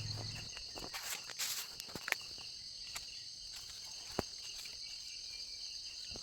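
Insect chorus: a steady high-pitched buzz with a quicker pulsing chirp beneath it, broken by a few faint clicks.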